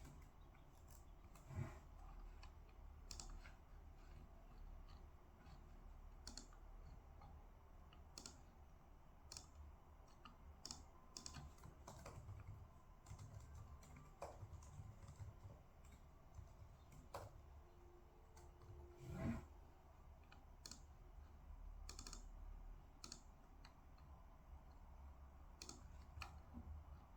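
Faint, irregular clicks and taps of typing on a computer keyboard, with a single louder knock about two-thirds of the way through.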